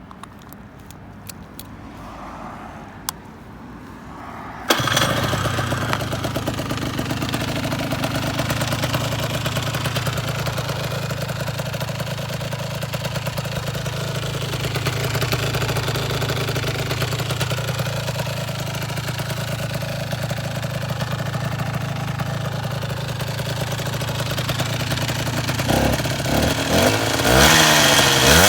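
Cagiva Raptor 125's two-stroke single-cylinder engine, breathing through an Akrapovic exhaust, starts suddenly about five seconds in after a few clicks, then idles steadily. Near the end it is revved several times, the pitch rising and falling.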